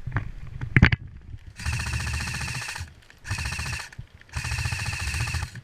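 Electric airsoft rifle, an LCT G04, firing three full-auto bursts as a fast buzzing rattle, the first and last over a second long. Two sharp knocks come in the first second before the bursts.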